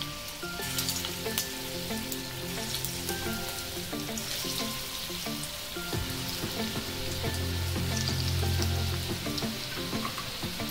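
Vegetable Manchurian balls of grated-cabbage dough frying in medium-hot oil in a shallow pan: a steady sizzle with small crackles, as more balls are dropped in one at a time.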